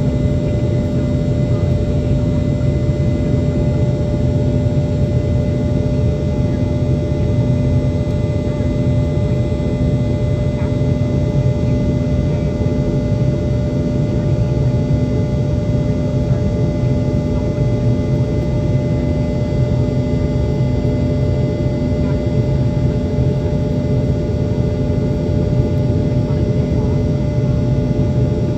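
Rolls-Royce BR715 turbofans of a Boeing 717 heard from inside the rear cabin during the climb after takeoff: a steady, even roar with a low rumble and several constant humming tones.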